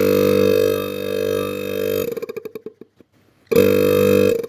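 Refrigerator motor-compressor running briefly on its new suspension springs: a loud steady hum that cuts off about two seconds in and coasts down in a run of slowing ticks, then starts again for about a second near the end and coasts down again. It runs without the knocking that the broken springs caused.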